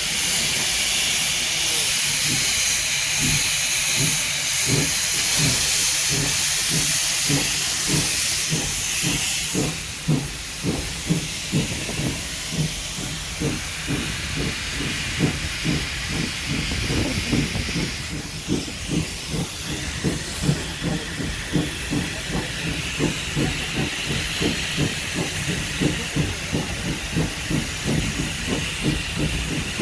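Steam locomotive pulling away with a train, its exhaust beats steadily quickening as it gathers speed. A loud hiss of steam rides over the beats for the first third, then eases off.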